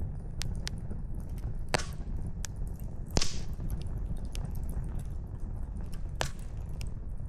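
Wood fire crackling: irregular sharp pops from burning logs over a steady low background, with a louder pop and a brief hiss about three seconds in.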